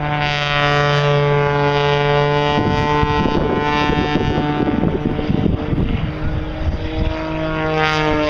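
Propeller aircraft engine droning at a steady pitch as it flies by, its tone sliding down in pitch near the end as the plane passes.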